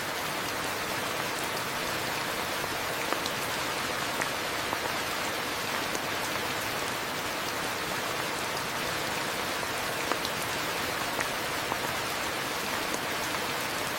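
Steady rain falling as an even hiss, with scattered sharp drips of individual drops landing close by.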